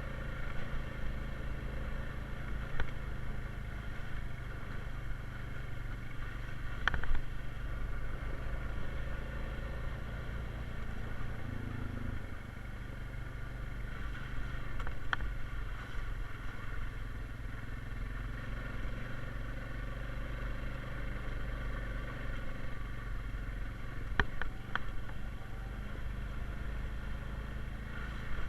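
Honda Rubicon 520 ATV's single-cylinder engine running steadily as the quad rides along a trail, with a few sharp knocks now and then.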